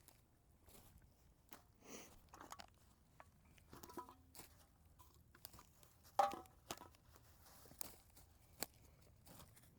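Scattered crunches and crinkles, the loudest about six seconds in, from footsteps in dry leaf litter and a plastic bag of collected cans and bottles being handled.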